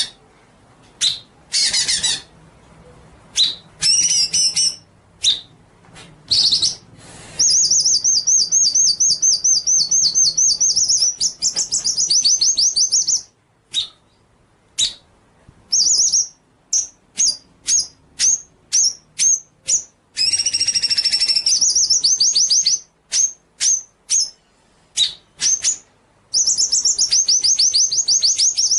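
A songbird singing loud, high-pitched song. Long, very fast trills, lasting several seconds each, alternate with strings of short, sharp separate chirps. It is a masteran recording of the kind played to caged songbirds to teach them song.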